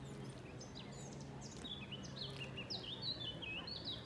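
Songbird singing: a few scattered high chirps, then from about halfway a quick run of high, down-slurred notes, over a faint steady low hum.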